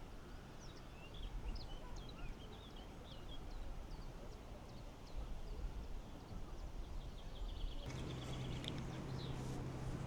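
Outdoor ambience with a heavy low wind rumble on the microphone and a run of short, high bird chirps during the first few seconds. Near the end a steady low hum sets in, with scattered ticks.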